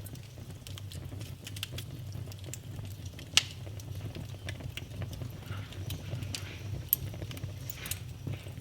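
Fire burning in a fireplace: a steady low rumble of flames with irregular crackles and sharp pops, the loudest pop about three and a half seconds in and another near seven seconds.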